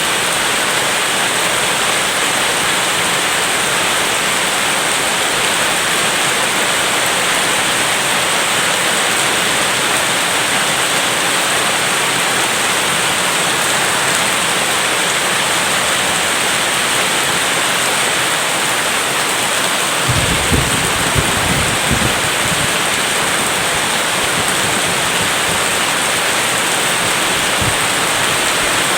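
Steady rain falling, a dense, even hiss. About two-thirds of the way through, a short low rumble of thunder comes in a few quick pulses.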